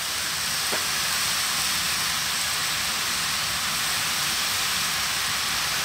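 Chunky mixed vegetables sizzling in hot coconut oil in a large aluminium pot, a steady, even hiss.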